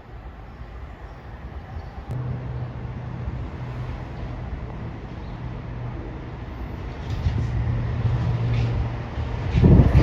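Long Island Rail Road train approaching, growing steadily louder, with a steady low hum and wheel clicks on the rail joints building near the end.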